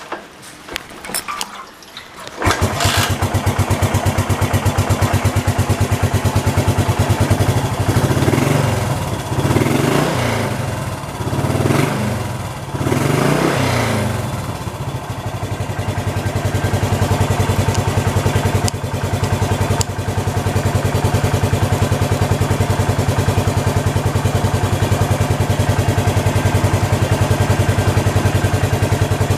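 Yamaha SR400 single-cylinder four-stroke engine starting about two and a half seconds in, then blipped up and down in pitch four or five times before it settles into a steady idle.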